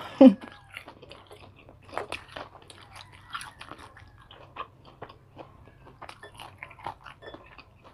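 Crisp, crunchy chewing of deep-fried tofu close to the microphone, a dense scatter of small crackling crunches. A short vocal sound right at the start is the loudest moment.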